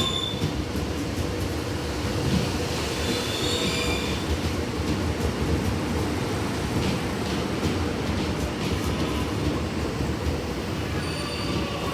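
Melbourne suburban electric train rolling past at a platform: a steady wheel-on-rail rumble, with brief high wheel squeals a few seconds in and again near the end.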